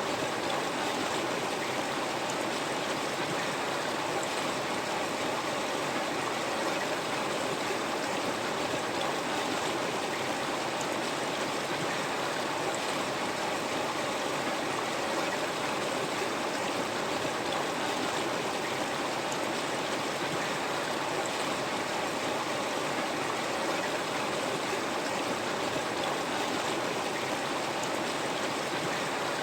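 River water flowing steadily over rocks, an even rushing with light gurgling.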